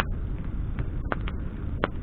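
Wood bonfire crackling: a few sharp pops and snaps, about a second in and again near the end, over a low steady rumble.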